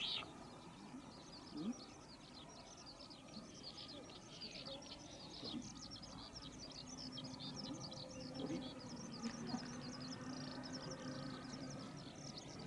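Small birds chirping: many short, high calls coming thick and fast, over a faint steady low hum partway through.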